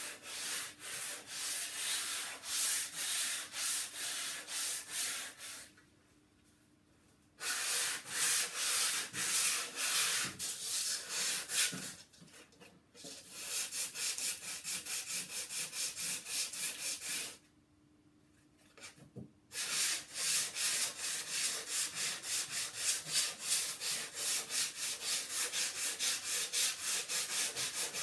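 Sandpaper being rubbed by hand over a wooden tabletop in quick, even back-and-forth strokes, working off an old oil finish; the sanding stops briefly twice.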